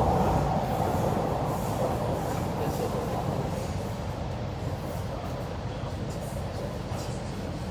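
Running noise of an MTR Kwun Tong line C-train heard inside the carriage: a steady low rumble of wheels and traction equipment with a mid-pitched whine that fades as the noise gradually gets quieter.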